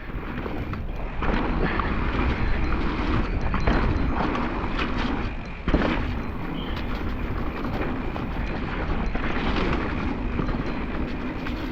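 Mountain bike being ridden fast over a muddy trail, with steady wind rumble on the mic and knocks and rattles from the bike over bumps and landings; one sharp jolt about halfway through.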